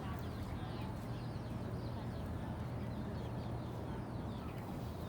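Many short, faint high chirps, like small birds calling, over a steady low hum.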